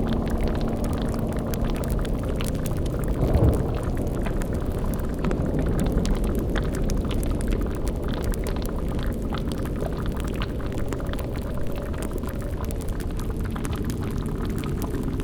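Layered spooky ambience: a steady low rumbling drone with a boiling cauldron bubbling and fine crackles over it, and one brief louder swell about three seconds in.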